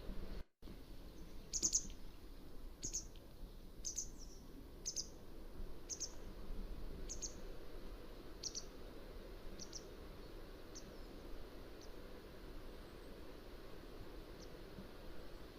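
Mountain wagtail calling: a string of short, sharp, high-pitched notes, roughly one a second, that grow fainter as the series goes on. The sound cuts out completely for an instant just before the calls begin.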